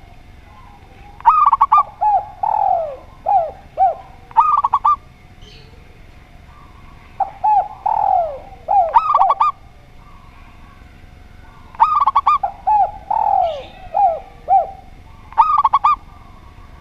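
Doves singing: three phrases about five seconds apart, each a quick run of clipped, ringing notes mixed with lower, falling coos.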